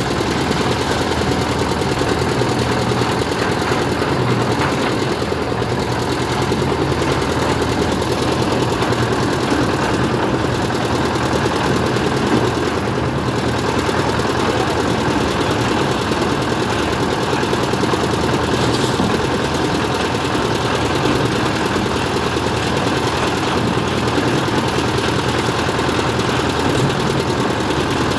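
Engine of road-construction machinery running steadily, a constant low hum and rumble that doesn't change pitch.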